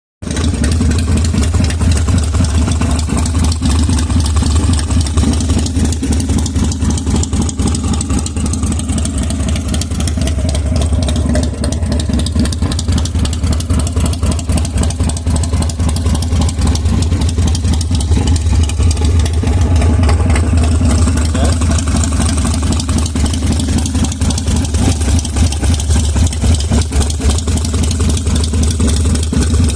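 2001 Buell X1 Lightning's air-cooled 1203 cc V-twin idling steadily with a quick, uneven pulse.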